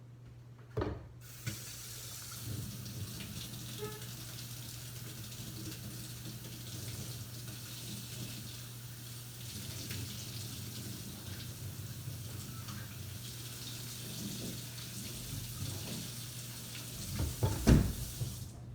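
Kitchen tap running steadily while a part of a small espresso machine is rinsed under it. A knock comes just as the water starts, and a louder clatter of the part being handled comes near the end.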